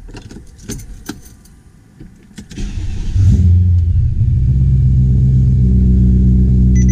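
A few sharp clicks, then the ESS VT2-625 supercharged V8 of a BMW E92 M3 cranks and catches about two and a half seconds in. It briefly flares, then settles into a loud, steady idle.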